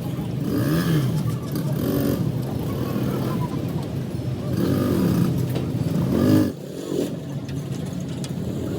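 A motor vehicle engine running steadily, with brief rises and falls in pitch and faint voices.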